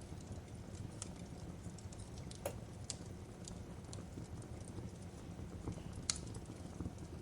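Fireplace crackling: a low steady rumble of burning wood with sparse, irregular sharp pops, the loudest about two and a half seconds in and again about six seconds in.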